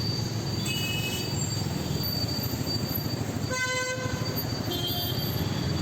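Steady rumble of busy city traffic with several short, high-pitched vehicle horn honks, the clearest one a little past the middle.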